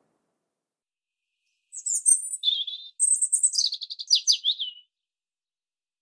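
A songbird singing one phrase of about three seconds, starting nearly two seconds in: high chirps, then a quick run of notes that falls in pitch.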